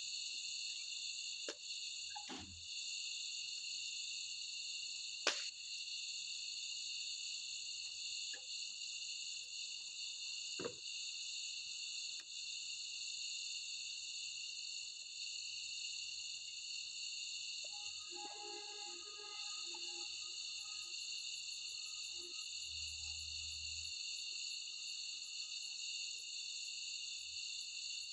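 Steady, high-pitched insect chorus, like crickets trilling, with a few sharp clicks and a brief faint call about two-thirds of the way through.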